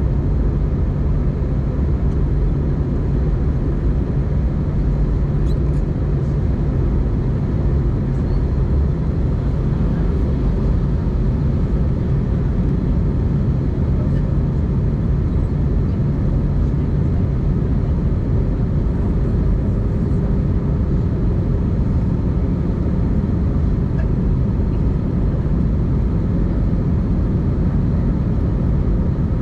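Steady cabin noise of an Airbus A320-200 in flight: engine and airflow noise with a steady low hum, unchanging throughout.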